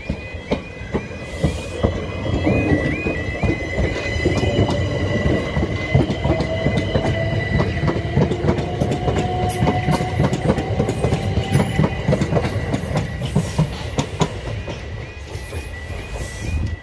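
A Southern Class 377 electric multiple unit passes close by: a low rumble and rapid clicking of wheels over the rails, with a faint whine that rises in pitch through the middle. Under it the level crossing's warning alarm chirps at about four a second, the crossing closed for the train, and it is clearer again near the end as the train clears.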